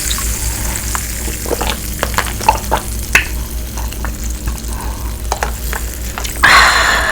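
Spicy dipping sauce bubbling in a pot as it is stirred: short spoon clicks against the pot over a steady sizzling hiss, with a louder rush of noise near the end.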